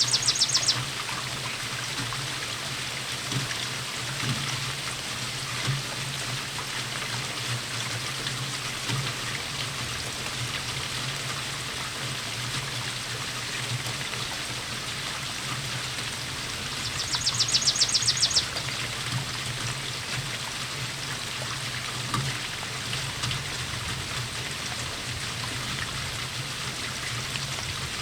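Steady rainfall, a continuous even patter of water. Twice, at the very start and again about 17 seconds in, a high, rapid trill sounds over it for about a second and a half.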